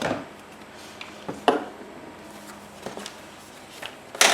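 Paper and craft pieces handled on a tabletop: a few short rustles and taps, the loudest near the end, over a faint steady hum.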